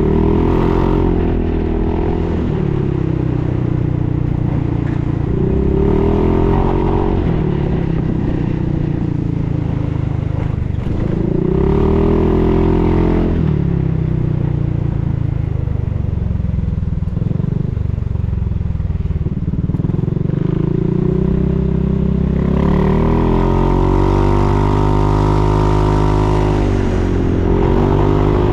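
Honda Forza 350 scooter's single-cylinder engine through a Yoshimura full exhaust system, running loud and rising and falling in pitch several times as the revs climb and drop back, with the longest climb near the end.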